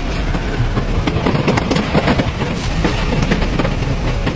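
Tornado wind rushing over the microphone with a deep, steady rumble and many small crackles and clatters of debris.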